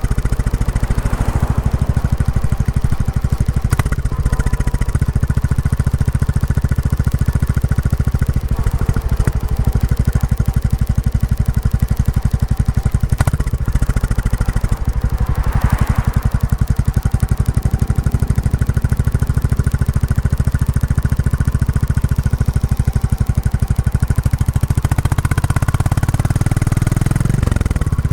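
Royal Enfield Classic 350's single-cylinder engine and stock exhaust, with a steady, close-spaced thumping beat while the motorcycle is ridden during break-in. The engine note shifts near the end.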